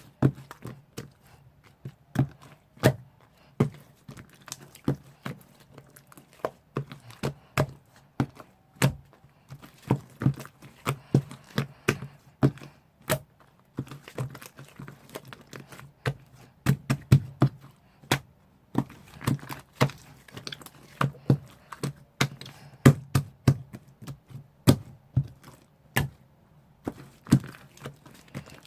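Irregular series of sharp knocks and clicks with a dull thud under each, sometimes several a second and sometimes with short pauses between.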